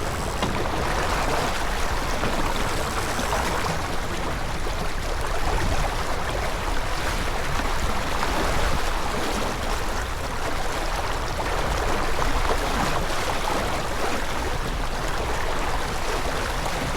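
Water rushing along the hull of a J24 sailboat under way: a steady, even rush.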